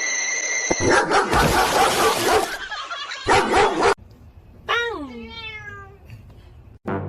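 A pet animal: a loud scuffling noise, then one drawn-out call that falls in pitch and levels off, about five seconds in.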